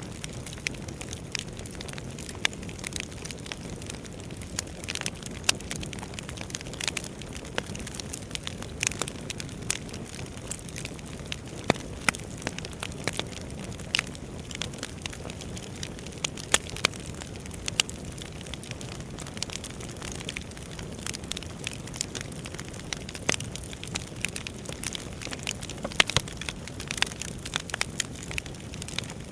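Burning firewood crackling, with frequent irregular sharp pops and snaps over a steady low rush of flame.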